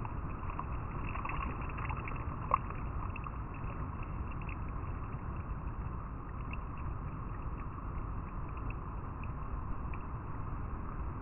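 River water flowing and rippling over rocks: a steady rush with many small splashes and ticks, and one sharp click about two and a half seconds in.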